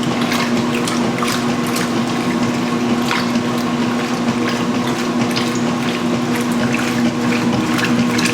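Huebsch (Speed Queen) commercial washing machine filling with water: water rushing into the tub over a steady hum, with small splashes here and there.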